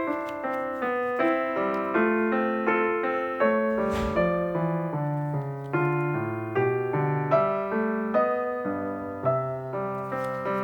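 Background piano music, a minuet, with a new note or chord every fraction of a second. A single short click is heard about four seconds in.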